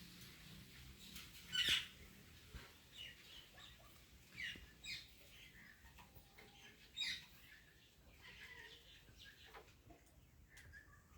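African grey parrot making a series of short chirps and whistles a second or two apart, the loudest near the start.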